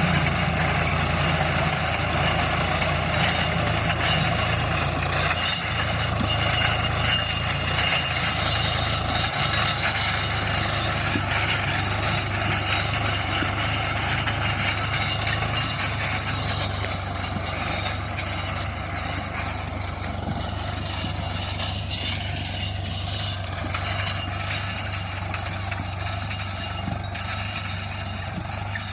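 Tractor diesel engine running steadily while ploughing a field, growing a little quieter in the second half.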